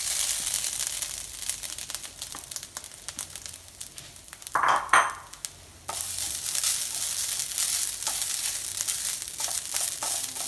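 Grated coconut sizzling and crackling in hot ghee in a nonstick frying pan as it is tipped in and stirred with a silicone spatula; the sizzle gets louder about six seconds in. A brief, louder muffled sound comes just before the middle.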